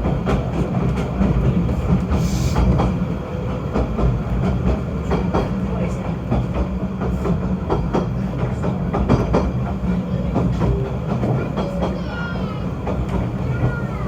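Snowdon Mountain Railway train running on its rack railway: a steady low rumble with frequent irregular clicks and clatter from the wheels and track.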